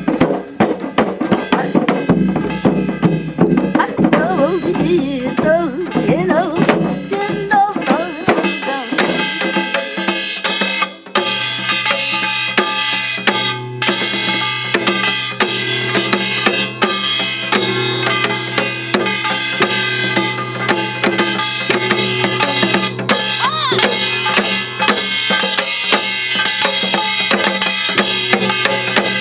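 Drum-led music accompanying a gyobang gutgeori dance. Wavering melodic lines in the first several seconds give way, about eleven seconds in, to busy, dense drum strokes over a steady low drone.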